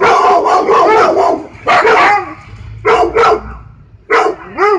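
A dog barking loudly in four bouts of barks: a long run at the start, then shorter bursts spaced about a second apart.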